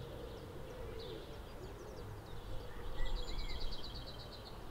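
Birdsong: small birds chirping here and there, with a quick trill of evenly repeated notes about three seconds in.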